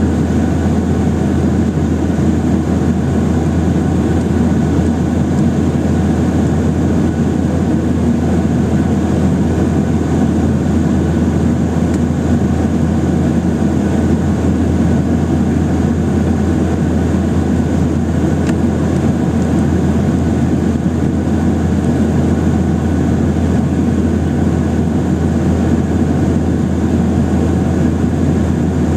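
Steady cabin noise inside a Boeing 737-800, heard from a seat over the wing: a constant rush of jet engines and airflow over a low hum, unchanging throughout.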